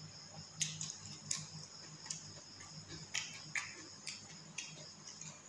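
Close-up eating sounds: irregular wet clicks and smacks of chewing and mouthing rice and curry eaten by hand, about one or two a second and unevenly spaced, over a faint steady low hum.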